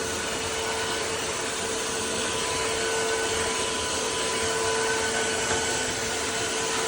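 Tineco cordless wet-dry floor cleaner running steadily, its motor giving an even rushing noise with a constant whine.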